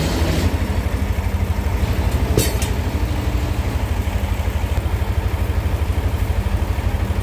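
Engine of a homemade portable sawmill running steadily with an even low throb, with one sharp knock about two and a half seconds in.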